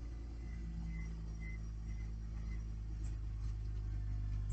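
2011 Mercedes-Benz C300 4matic's 3.0-litre V6 idling steadily, with a few light clicks near the end.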